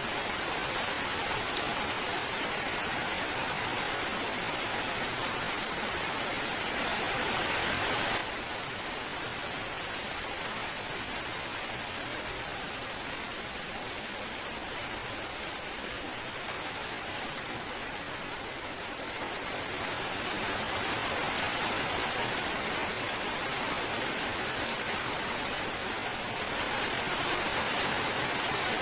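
Steady rain falling as a dense, even hiss. About eight seconds in it drops abruptly to a slightly quieter level, then swells back up again later on.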